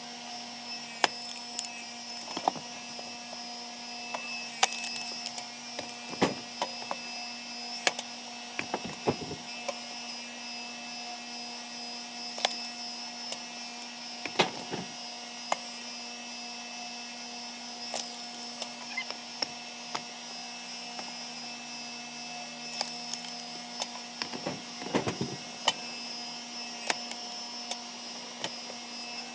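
Engine-driven hydraulic log splitter running with a steady hum, while logs crack and splinter apart in repeated sharp snaps, several coming in quick clusters.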